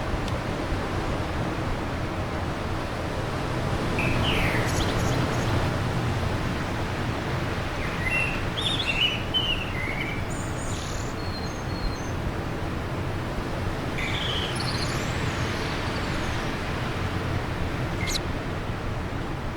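Steady wind rushing, with small birds chirping in a few short bursts of quick notes scattered through it.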